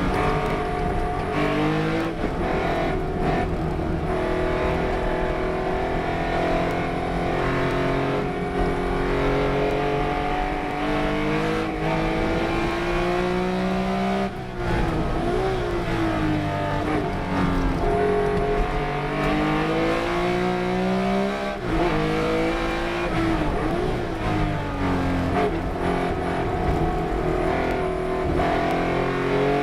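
Race car engine at racing speed, its pitch climbing as it accelerates and dropping as it shifts or brakes for corners, over and over. The sound briefly cuts out about fourteen seconds in and again about twenty-one seconds in.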